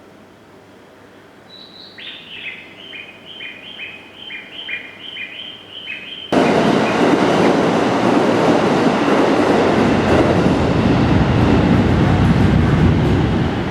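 A train passing close by: loud, steady rushing rail noise that comes in suddenly about six seconds in and runs until just before the end. Before it, a bird chirps in a quick repeated series.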